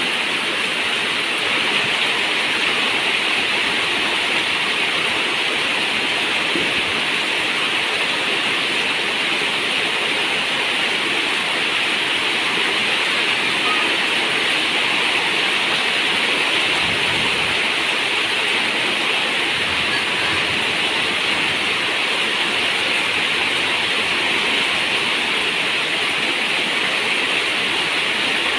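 Heavy rain falling steadily: a dense, even hiss of water with no separate drops standing out.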